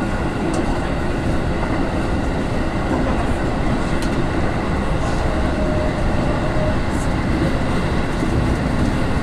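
Running noise inside a JR West 221 series electric train between stations: a steady rumble of wheels on the rails, with a few light clicks.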